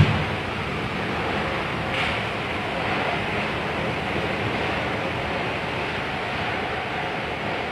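Heavy rain driven by strong wind: a steady, dense rushing noise, with a short knock right at the start.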